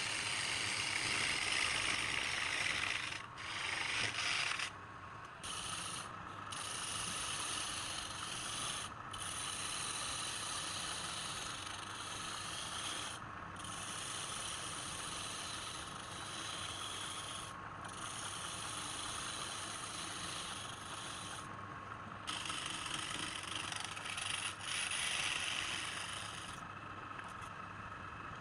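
Wood being worked on a spinning lathe: a steady scraping, rubbing noise that breaks off for a moment several times.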